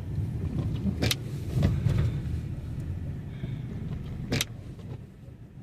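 Inside a moving car: a steady low rumble of engine and tyres on the road, with two sharp clicks about three seconds apart.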